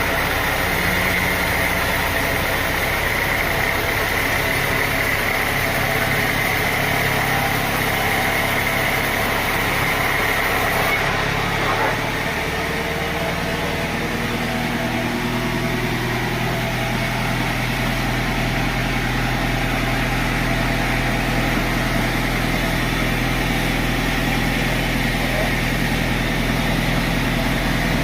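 An engine running steadily, with the pitch of its hum shifting about twelve seconds in.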